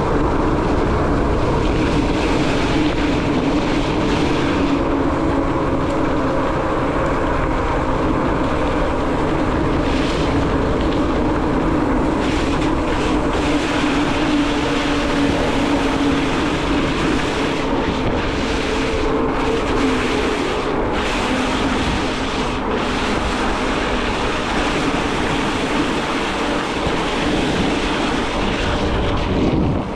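Steady road noise of a bicycle being ridden on a wet road: tyre hiss and wind buffeting the microphone, with a low hum throughout.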